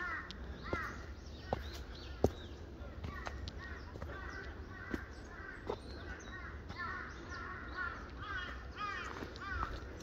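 Birds calling in woodland: a steady run of short, arching calls repeated in quick clusters, with a few sharp clicks.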